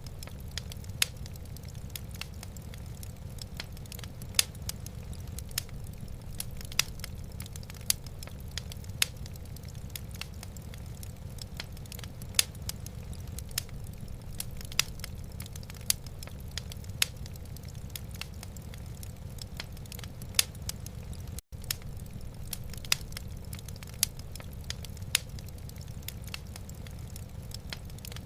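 Wood fire crackling in a fireplace: sharp, irregular pops about one or two a second over a steady low rumble. The sound cuts out for an instant about 21 seconds in.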